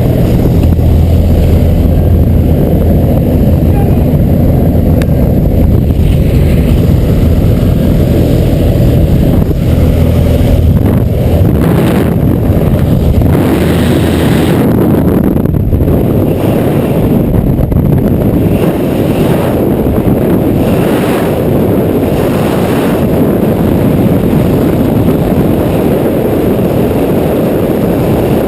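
Small jump plane's engine and propeller droning steadily, mixed with loud wind rushing over the microphone; the low hum is strongest in the first dozen seconds, then the wind rush dominates.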